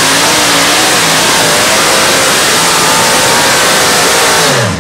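Modified pulling tractor's engine running at full throttle under load during a pull, a loud, steady blast of engine and exhaust noise whose pitch wavers slightly up and down, cutting off sharply near the end.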